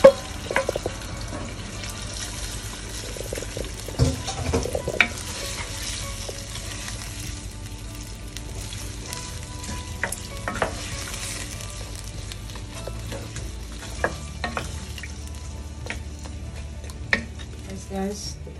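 Curry chicken back with carrots and potatoes sizzling in a pot on the stove as it is stirred with a wooden spoon, with scattered knocks of the spoon against the pot.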